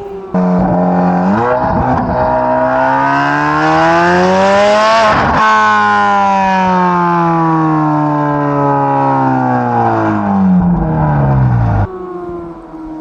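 2024 Corvette C8 Z06's flat-plane-crank V8 with a straight-piped aftermarket exhaust, revving hard under full throttle. The revs climb steadily to about five seconds in, drop sharply at a gear change, then fall steadily, and the sound drops away near the end.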